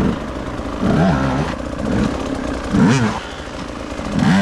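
Two-stroke enduro motorcycle engine blipped in short rev bursts, its pitch jumping up and falling back about four times.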